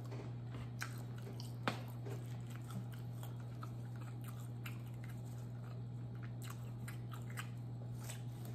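Close-miked chewing of a mouthful of butter chicken, with scattered short wet mouth clicks and smacks over a steady low hum.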